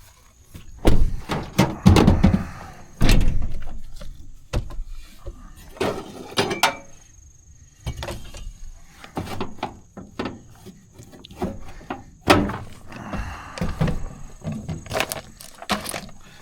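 A series of irregular knocks and heavy thuds with lighter clicks between them, strongest in two clusters: one about a second in and one about twelve seconds in.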